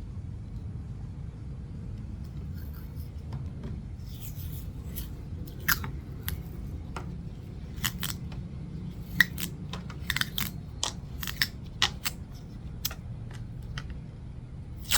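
Close handling sounds as a stick rocket is taped to its stick: irregular sharp clicks and crackles of adhesive tape and wrapping being pulled and pressed, starting about four seconds in, over a steady low rumble.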